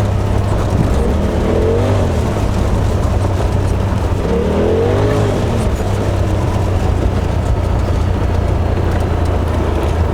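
Polaris RZR XP Turbo S side-by-side's turbocharged twin-cylinder engine running under way as a steady low drone. Its pitch rises and falls briefly twice, about a second in and again around four and a half seconds in.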